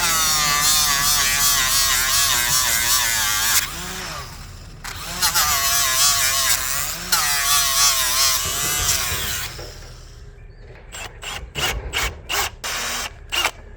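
Handheld electric grinder working steel, its motor note wavering as it bogs under load, in two long runs with a short pause between. Near the end, about seven short bursts as the tool is blipped on and off.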